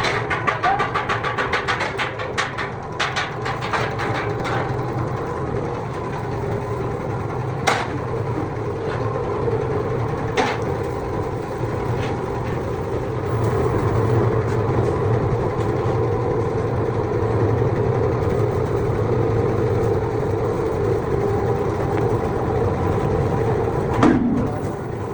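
Workshop machinery running with a steady hum, with a fast rattle of clicks over the first few seconds and a few single sharp metal knocks later on.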